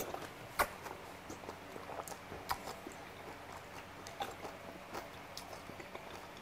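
A person chewing a mouthful of mulhoe, cold raw-flounder soup with noodles and vegetables, picked up close on a lapel microphone. The chewing is faint, with scattered soft wet mouth clicks, the most distinct about half a second in.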